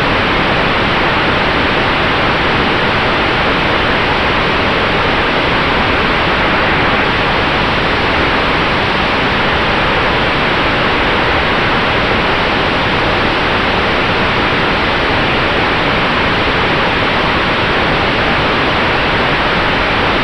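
Steady rush of airflow and propeller noise inside the cockpit of an electric Sonex Xenos in flight, with a faint steady whine under it.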